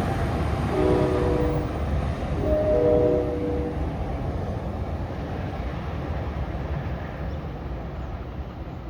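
Train horn sounding two blasts of a several-note chord, each about a second long, over the low rumble of the train, which slowly fades.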